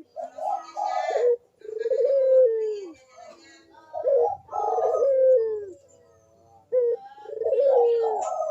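Puter dove (domestic ringneck dove) cooing its song in a run of repeated coos, each about a second long and dropping in pitch at its end.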